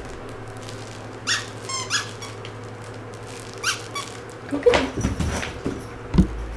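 Plush squeaky dog toy squeaking three times in short squeaks, followed by a thump near the end.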